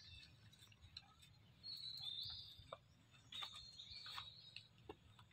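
Faint high-pitched bird chirps, in two short spells about two seconds in and again around three and a half to four seconds, over quiet outdoor background with a few soft clicks.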